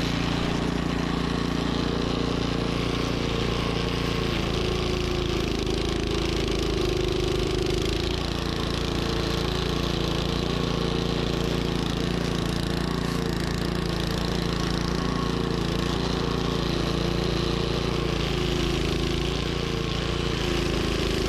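Troy-Bilt snowblower engine running steadily at working speed, its pitch wavering slightly.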